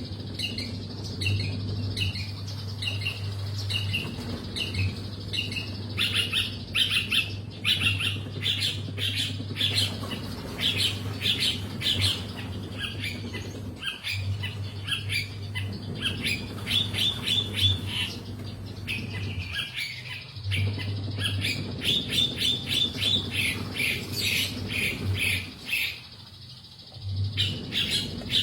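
Long-tailed shrike (cendet) singing vigorously in harsh, chattering runs of rapid repeated notes, broken by a few short pauses, the longest about two seconds before the end. A steady low hum runs underneath.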